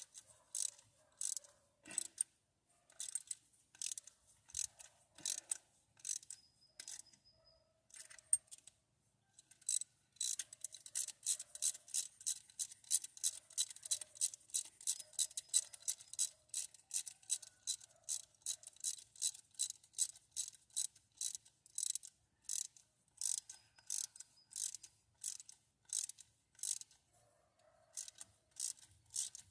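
Socket ratchet wrench clicking as it is cranked, in short runs at first, then a long steady run of about four clicks a second, then short runs again: nuts or bolts being run down on the engine.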